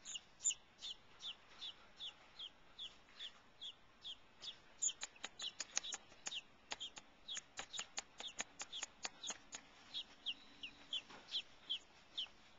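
American robin chirping: short, high, falling notes repeated about two to three times a second, with a run of sharp clicks in the middle.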